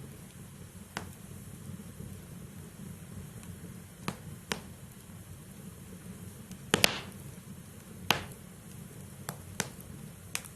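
Wood fire burning in a fireplace: a steady low rumble of flames with sharp, irregular crackles and pops from the burning logs. The loudest is a close double pop about seven seconds in.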